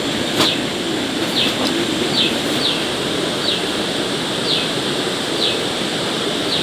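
Steady rain, with a bird giving short falling chirps about once a second and a single sharp click about half a second in.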